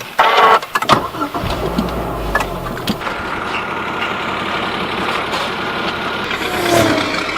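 A car engine running, with a low rumble about two seconds in, over steady outdoor traffic noise and scattered clicks.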